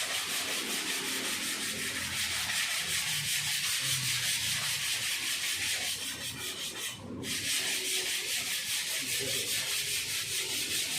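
Sanding of cured body filler on a car panel, a steady scratchy rubbing that evens the filler down thin. It pauses briefly about six seconds in, then carries on.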